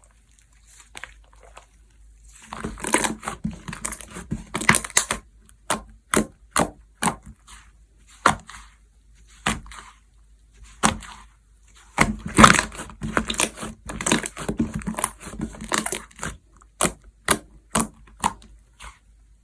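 Slime being squeezed and pressed by hand, with two runs of dense crackling and squelching and single sharp pops between them.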